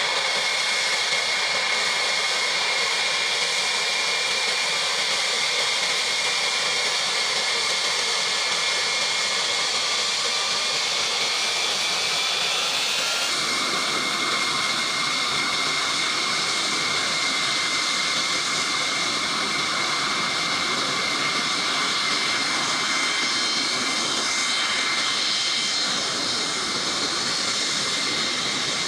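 Jet aircraft engines running: a steady hiss with a high whine. About 13 seconds in the sound changes abruptly, as at a cut to another shot, then carries on steadily.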